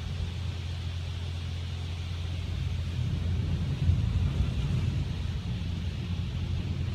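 Car wash machinery running: a steady low rumble with a hiss above it, and a single knock about four seconds in.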